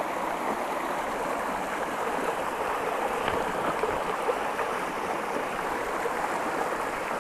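Shallow mountain creek water running steadily over rocks.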